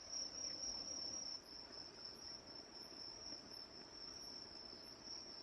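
Insects trilling in one steady, high-pitched note, faint, over a low hiss of background noise.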